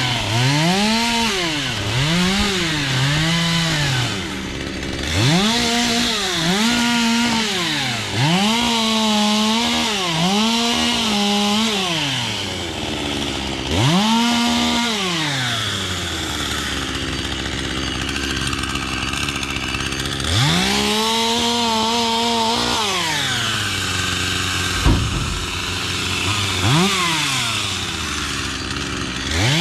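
Two-stroke chainsaw revved up again and again, each time holding a high pitch for about a second and then dropping back to idle. It settles to a steady idle for several seconds in the middle, then resumes the revving. A single sharp knock sounds during the later idle.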